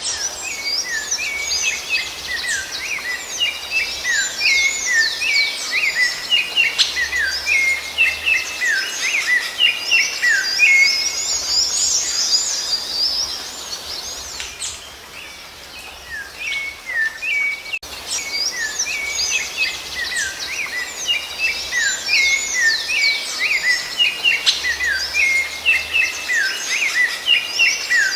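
Rufous-bellied thrush (sabiá-laranjeira) singing: a dense run of short whistled and chirping notes that dies down about halfway through, then starts up again.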